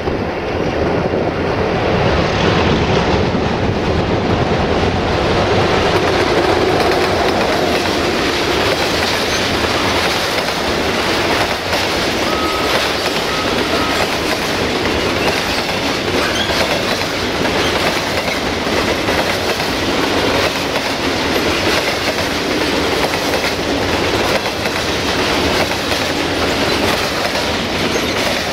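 A locomotive-hauled train passing close by, its cars clattering steadily over the rail joints. It is loudest in the first several seconds, as the locomotive goes by.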